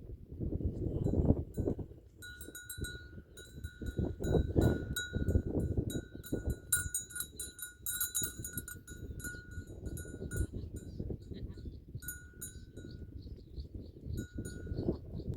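A bell on herd livestock clanking over and over as the animals move, ringing on with a few short breaks.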